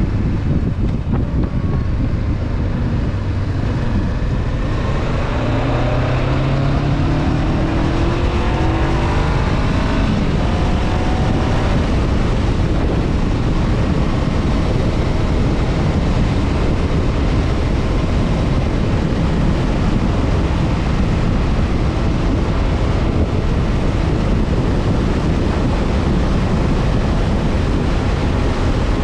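Honda CB500F's parallel-twin engine accelerating, rising in pitch for several seconds, with a shift about ten seconds in. After that the engine runs at a steady cruise under continuous wind noise on the microphone.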